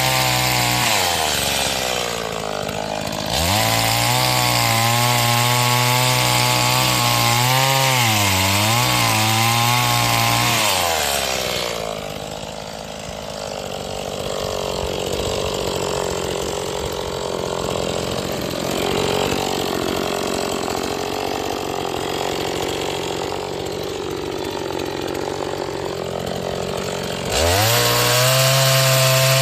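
Stihl MS 180 two-stroke chainsaw, a new saw being run in, cutting firewood: it runs at high revs with the pitch sagging and recovering as the chain bites, drops to a quieter, lower running for about fifteen seconds, then revs up again near the end.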